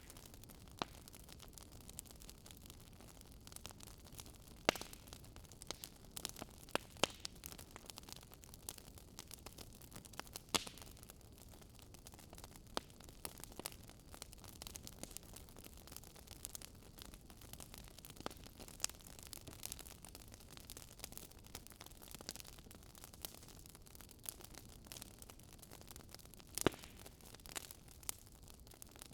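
Wood fire burning in a fireplace: irregular sharp crackles and pops over a faint steady hiss, with a few louder pops.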